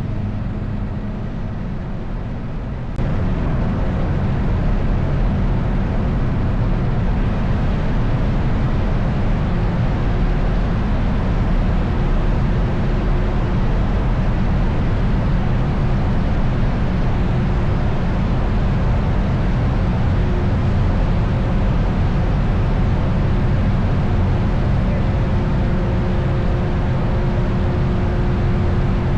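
Motorcycle riding along at a steady speed: engine and heavy wind rumble on the rider's mic, unchanging throughout. A music track ends about three seconds in.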